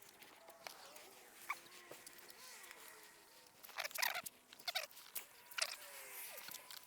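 Sped-up sound of spraying and wiping car panels with a ceramic spray: squeaky chirping glides and light clicks, with short hissing bursts about four seconds in and near six seconds.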